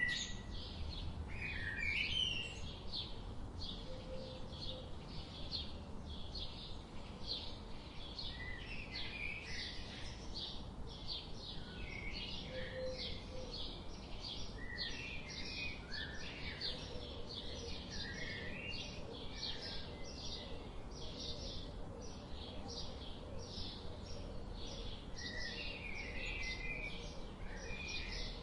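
Songbirds singing and chirping: one high note repeats evenly about two to three times a second throughout, while other birds add scattered chirps and short warbles, all over a steady low rush of river water.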